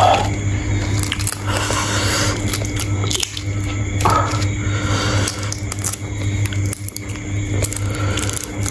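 Sea shrimp being eaten: wet squishing and crackling of shells and flesh being bitten and chewed, in quick irregular clicks.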